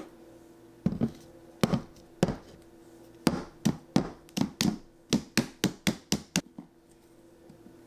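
Hands and fingernails tapping and knocking against a hard black cylindrical milk frother and mug on a counter. A few separate knocks come first, then a quick run of about a dozen taps, each with a short ring.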